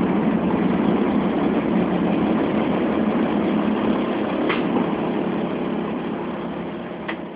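Expresso Bus model 1072 city bus engine running steadily, fading out over the last couple of seconds, with two short clicks along the way.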